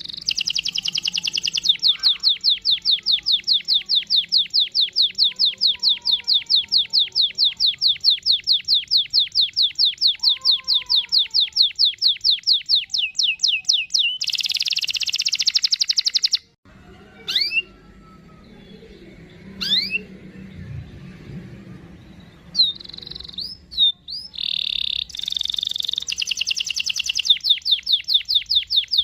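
Domestic canary singing long rolling trills: a fast run of repeated high notes, about eight a second, broken by dense buzzy phrases and a few scattered chirps, with the trill returning near the end.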